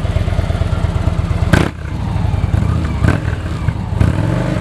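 Victory 106 cubic inch V-twin motorcycle engine running through Victory performance touring exhaust and being given a couple of revs. A sharp crack about a second and a half in is the loudest moment.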